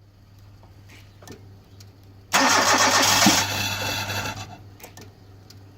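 Hyundai Getz petrol engine cranked and catching quickly on a restart: it fires about two seconds in, runs loudly for about a second, then dies down over the next second or two. Once the car has been started, this restart goes smoothly, unlike its first-up morning no-start.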